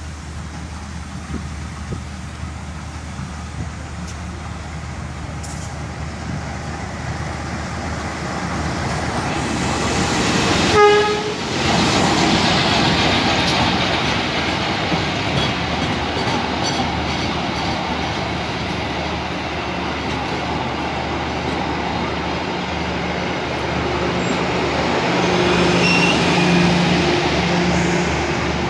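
Diesel-hauled passenger train approaching and passing close by, its engine noise building as it nears. The locomotive sounds one short horn blast about eleven seconds in. The coaches' wheels then rumble and clatter over the rails as the train rolls past.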